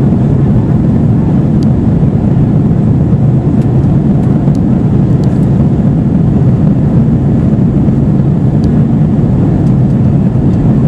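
Steady, loud cabin rumble of an Airbus A320-232 in flight: engine and airflow noise heard from inside the passenger cabin, with a few faint ticks.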